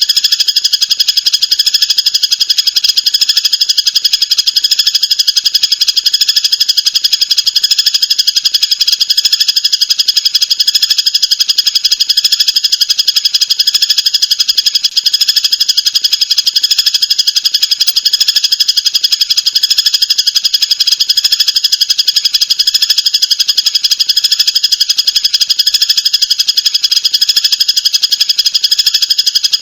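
Songbird singing a rapid, continuous buzzing trill, high-pitched and without pause.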